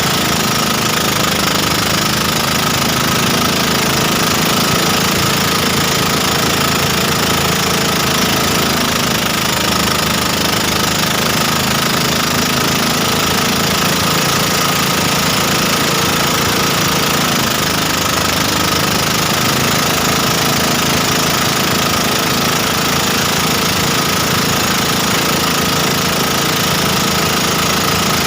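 Motorboat engine running steadily under way, its pitch wavering slightly.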